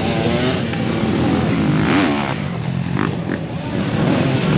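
Motocross dirt bike engines running steadily, with one engine's pitch dipping and rising again about two seconds in.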